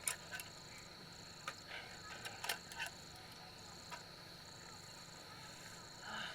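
A few sharp light clicks and knocks, most of them bunched between two and three seconds in, over a steady high-pitched whine and a higher buzz that keeps switching on and off.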